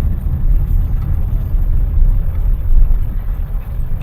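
Engine and road noise of a moving car: a low, uneven rumble.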